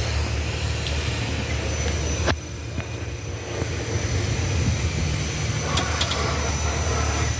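Road rumble of a BYD Yuan Pro electric SUV being driven, with a sharp click a little over two seconds in and a few lighter clicks around six seconds. The clicks are the body noise, a creak from the welded body nut at the subframe's guide pin vibrating against the frame.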